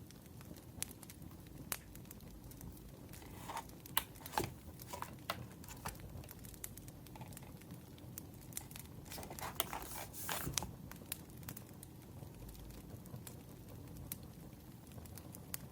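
Wood fire crackling with scattered sharp pops, and paper rustled and crinkled in two short spells, about four seconds in and again around ten seconds.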